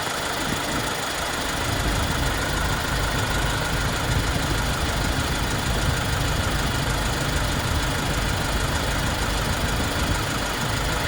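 Kia Bongo 3 cargo truck's engine idling steadily, heard from inside the cab.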